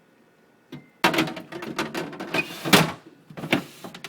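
Things being moved about inside a refrigerator: a single click, then about two seconds of clattering and rustling with many sharp knocks, and another short knock about three and a half seconds in.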